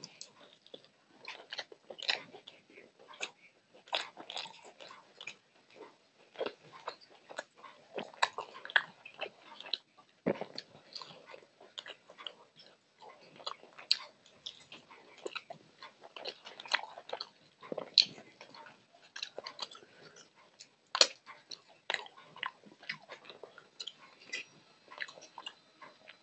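Close-miked chewing and biting of chicken in gravy, eaten by hand: a steady, irregular run of short mouth clicks and smacks.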